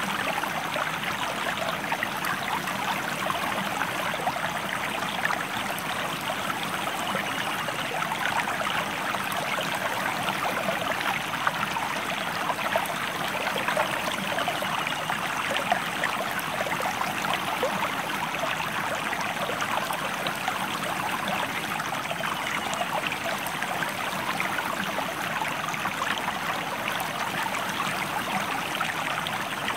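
A river stream flowing, a steady rush of running water with fine, constant splashing.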